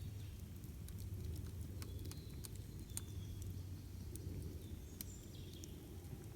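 Campfire crackling, with irregular sharp pops over a steady low rushing. A few brief high bird chirps come through.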